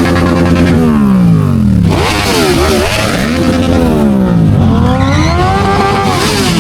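A loud engine being revved repeatedly. Its pitch falls away over about a second, climbs and drops again, then makes a longer rise and fall near the end.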